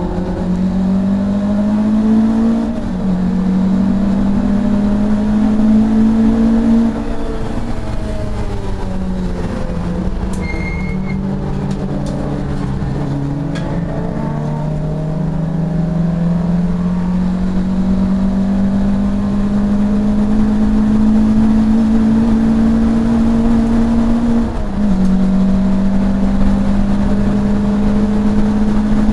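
Touring race car engine at full throttle, heard from inside the cockpit. It pulls up through the revs with a sharp drop at an upshift about 3 s in. Around 8 to 13 s in the revs fall and waver as the car slows for a corner, then climb in a long pull to another upshift near the end.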